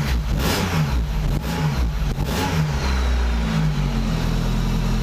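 Rover Metro's 1.8 K-series VVC four-cylinder engine, just started, running with its revs rising and falling for the first few seconds. It then settles to a steady idle about three and a half seconds in.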